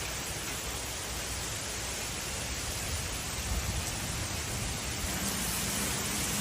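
Heavy rain falling steadily, a dense even hiss. A low hum comes in near the end.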